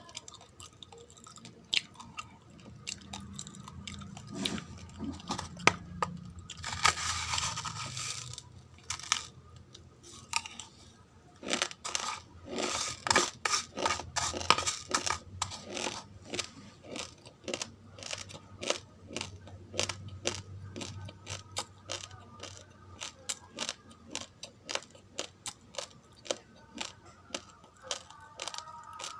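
Raw uncooked rice grains being chewed and crunched close to the microphone, a dense run of sharp crunches throughout, with longer, noisier stretches about seven seconds in and again between roughly twelve and fifteen seconds.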